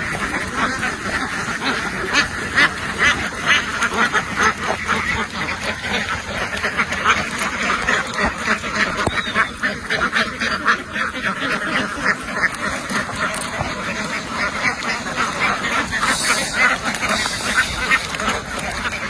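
A large flock of domestic ducks quacking continuously, many birds calling over one another in a dense, unbroken din.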